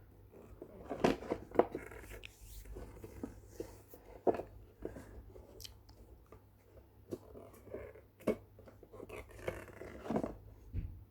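Scattered small clicks and brief rustles of handling, irregular and with short pauses between them.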